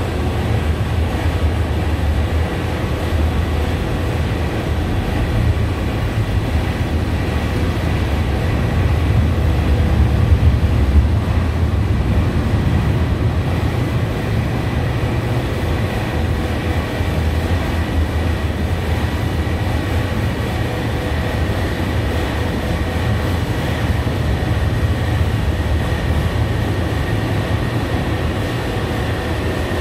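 Double-stack intermodal freight train rolling past, a steady low rumble of wheels on rail with a faint high steady tone above it.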